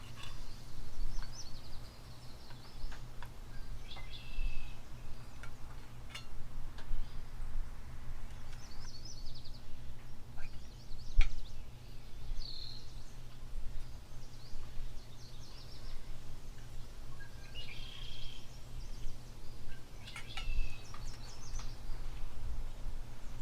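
Small birds chirping in short scattered calls over a steady low rumble, with a few sharp clicks, the loudest about eleven seconds in.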